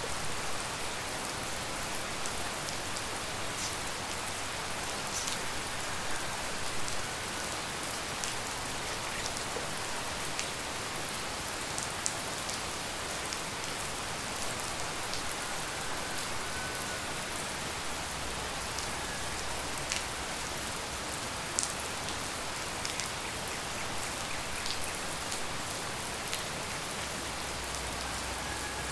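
Steady rain falling, with scattered sharper taps of single drops landing close by.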